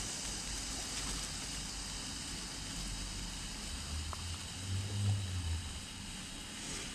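Standard Fireworks Scarlet Ray firework fountain hissing steadily, dying down near the end. A low rumble swells about four to five and a half seconds in.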